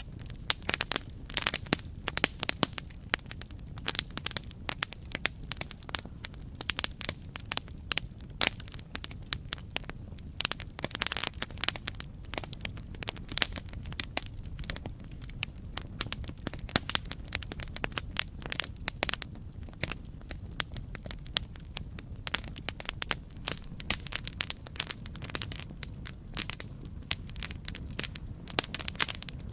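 Wood fire crackling, with irregular sharp pops and snaps several times a second over a steady low rumble of burning.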